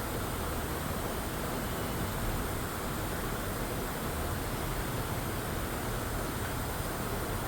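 Steady factory ambience: an even rushing hiss with a low rumble underneath, with no distinct knocks or tool sounds standing out.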